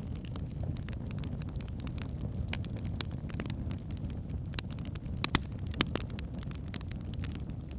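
Wood fire burning in a fireplace: a steady low rumble of the flames with frequent crackles and sharp pops from the burning logs, the loudest pops a little over five seconds in.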